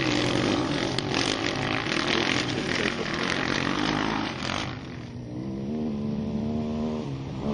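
Sherco 4.5i four-stroke dirt bike engine running hard on the trail. After about four and a half seconds it eases off, then settles into a steadier, lower engine note.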